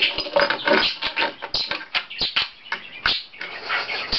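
Budgerigar chattering and chirping while pecking at a weeble toy, which gives quick, irregular knocks and clicks on the table.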